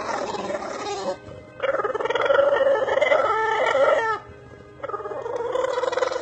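A dog giving three long, wavering howls in a row that sound like a rooster crowing, the middle one longest and loudest.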